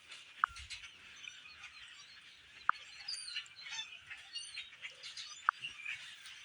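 A large flock of birds chirping and calling, many overlapping high chirps, with three short, sharp falling notes about two and a half seconds apart standing out as the loudest sounds.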